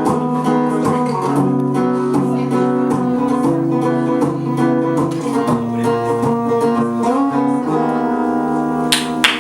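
Acoustic guitar strumming and letting the song's closing chords ring out, with no singing. Clapping breaks out right at the very end.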